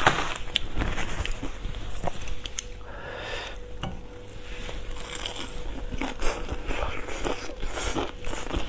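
Close-miked eating sounds: chewing and crunching of food, with short clicks and scrapes of chopsticks against the plate.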